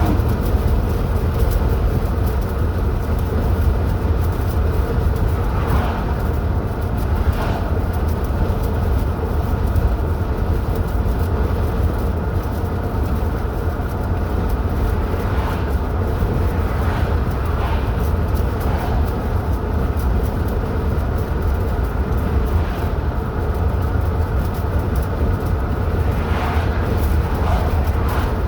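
Car driving at a steady speed: an even low rumble of engine and tyres on the road.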